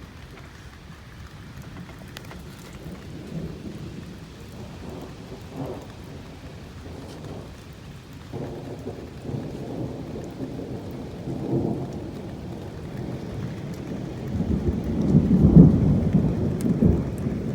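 Thunder rumbling low in several rolling swells, building to its loudest about fifteen seconds in, with rain falling.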